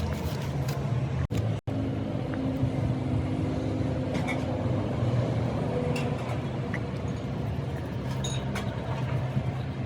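An engine running steadily with a low hum, with a few faint light clicks over it.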